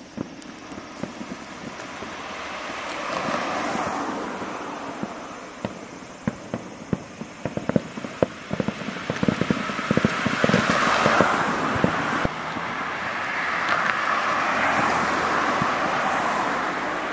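Fireworks display: a dense run of rapid crackling pops from about five to twelve seconds in, over swells of rushing noise that rise and fall several times.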